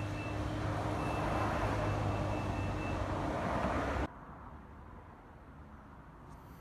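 2015 Volkswagen Golf SE engine idling steadily, with a thin high tone sounding in short stretches over it. About four seconds in, the sound cuts off suddenly to a quiet background.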